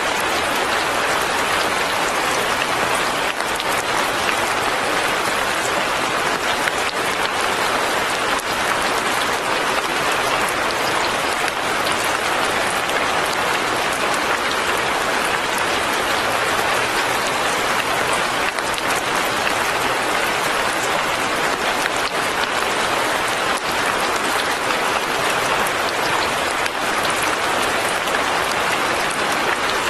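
Steady light rain falling, an even hiss that does not change.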